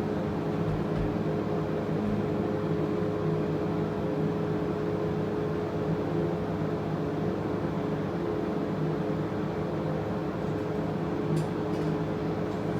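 Steady hum of a hydraulic passenger elevator cab in motion, with a few constant tones, as heard from inside the cab. A couple of faint clicks come about 11 seconds in.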